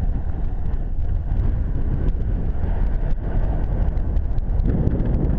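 Enduro motorcycle running while being ridden over a rough mountain trail: a steady engine and low rumble, with many short knocks and rattles throughout.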